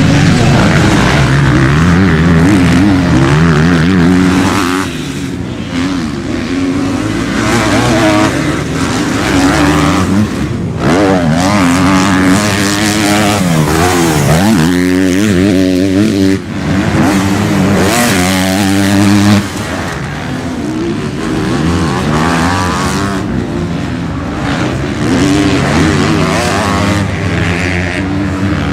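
Motocross bikes racing, their engines revving up and dropping back again and again as riders work the throttle and shift through the gears.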